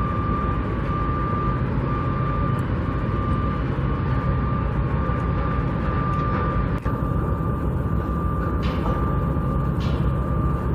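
Steady low rumble of heavy vehicles and construction machinery, with a thin, steady high-pitched tone running over it.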